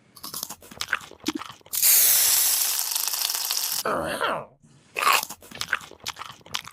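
Crunching sounds, like bites into crisp food, as a scatter of sharp crunches. A steady hiss runs for about two seconds in the middle, followed by a quick falling sweep.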